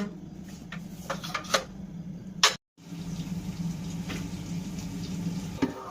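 Chicken cooking in a pan without oil, a steady watery sizzle, with a few sharp knocks of a utensil against the pan in the first half.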